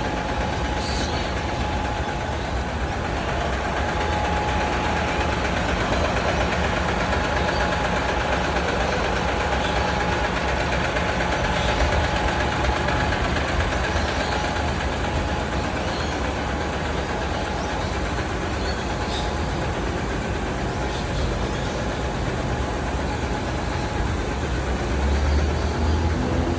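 Large truck engine idling steadily, a constant low rumble with a faint steady whine above it.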